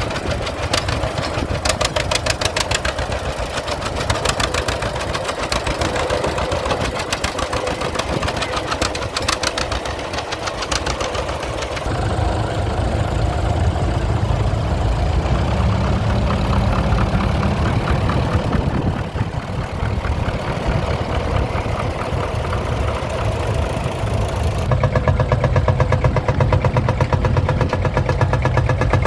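Engines running with a rapid, even firing beat; the sound changes abruptly three times, as from one running engine to another.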